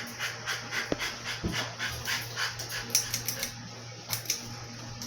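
Wobbling polished-brass ceiling fan running with a steady motor hum and a rhythmic clicking, about four times a second, as it shakes on its mount. A few louder knocks come through it; the wobble is very bad.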